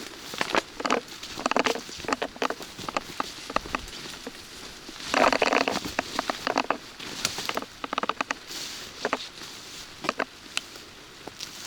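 Close, irregular tapping and pattering from walking in the rain, with a louder rustling crunch about five seconds in.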